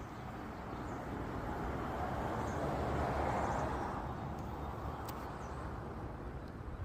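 A vehicle passing on a road, its noise swelling to a peak about three seconds in and then fading away.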